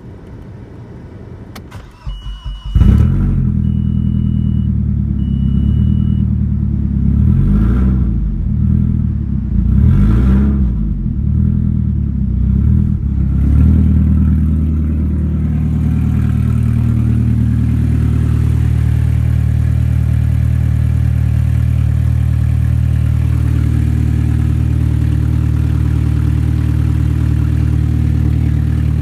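Audi A4 B5's 1.8-litre ADR four-cylinder petrol engine cranked and started about three seconds in, revved up and down three times, then settling into a steady idle. Three short electronic beeps sound around the start.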